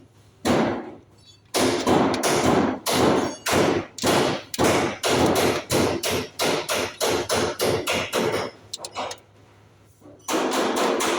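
Repeated hammer blows at about two to three a second. They pause briefly, then resume at a faster pace near the end.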